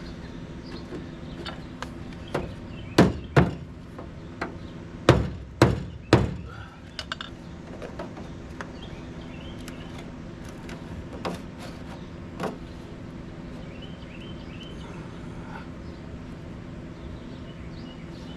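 A series of sharp knocks on sheet-metal car body panels while a front fender is fitted: five loud knocks in quick succession about three to six seconds in, the last ringing briefly, then a few lighter taps. A steady hum runs underneath.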